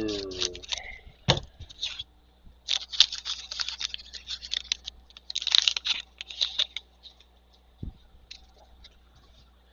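Plastic wrapper of a trading-card pack being torn open and crinkled, in a few short crackly bursts, with a couple of dull knocks as the cards are handled.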